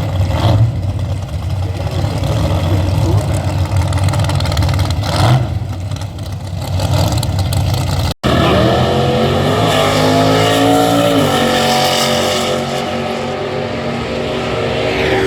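Drag-race car engines. For about half the time there is a loud low rumble; then, after an abrupt cut, a single engine runs with a clear pitch that is revved up, drops back, holds, and rises again near the end.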